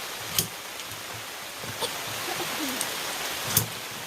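Heavy rain falling steadily on a camping canopy, with a few sharp taps of larger drops close by. The loudest tap comes about three and a half seconds in.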